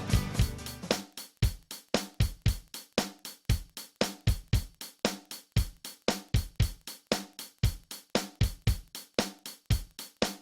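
Isolated rock drum kit playing a steady beat of about four hits a second, with bass drum, snare and hi-hat. The full band cuts out about a second in, leaving the drums alone.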